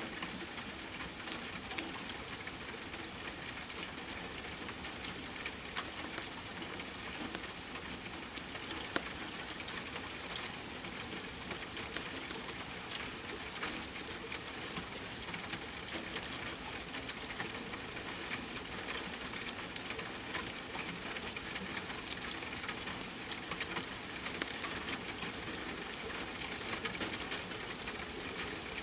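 Steady rain mixed with a crackling fireplace: an even hiss dotted throughout with many small sharp crackles.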